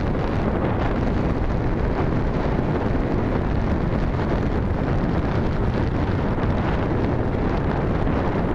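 Steady wind rumble on the microphone of a moving bicycle rider, muffled by a hand covering the microphone.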